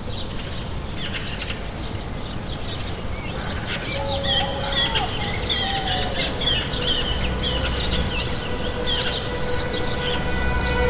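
Many small birds chirping and twittering in quick, overlapping calls over steady low background noise. Music begins to come in near the end.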